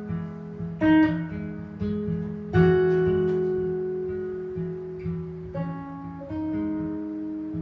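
Improvised jazz guitar: slow, sparse chords and single notes, each plucked and left to ring and fade, the loudest chord about two and a half seconds in ringing for nearly three seconds.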